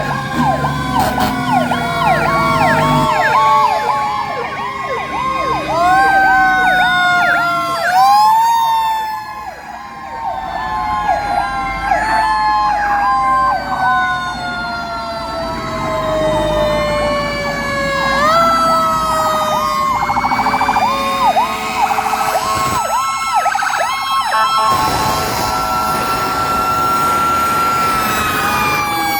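Several fire truck sirens sounding at once: fast repeating yelps over long wails that climb quickly and then sink slowly in pitch, over and over.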